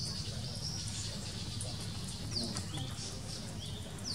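Birds chirping: short, high, falling chirps repeated every second or so, over a low steady rumble.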